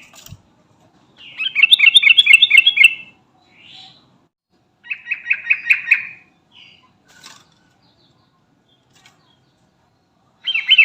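Yellow-vented bulbul (trucukan) singing in loud bursts of rapid, repeated warbled notes, each about one to two seconds long. There are three bursts, the last starting near the end, with a few short single calls between them.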